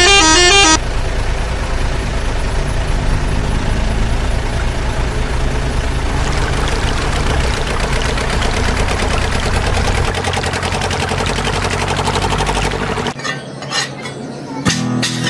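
A vehicle engine running steadily after a horn cuts off about a second in. The engine stops near the end, and guitar music starts just before the end.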